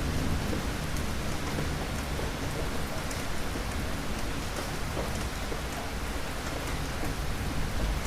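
Steady rain falling with fine scattered drop ticks, as in a thunderstorm; a low thunder rumble fades out at the very start.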